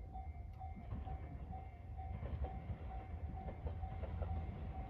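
Level-crossing warning bell ringing about twice a second over the low rumble of an approaching Marine Liner rapid electric train. Wheel clicks on the rails come in from about two seconds in.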